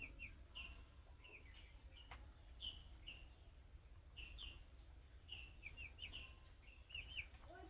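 Budgerigar chirping: short, soft tweets scattered throughout, over a low steady hum.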